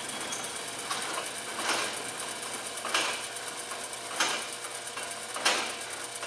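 Lantech Q-Auto roller turntable stretch wrapper running, a steady machine hum with a short rasping crackle repeating about every 1.3 seconds.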